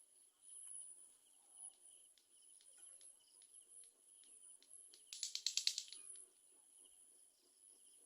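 Faint, steady, high-pitched insect chirring in two pulsing bands, with a brief burst of rapid sharp ticks about five seconds in that lasts under a second.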